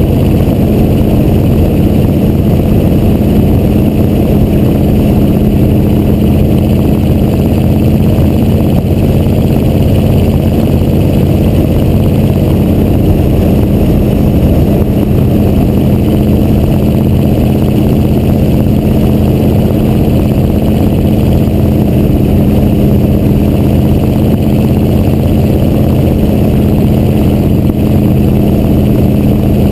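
Diesel V8 of a 1986 Chevrolet C30 dually, the 6.2 L Detroit diesel, running steadily through its exhaust stacks with a deep, even tone and no revving.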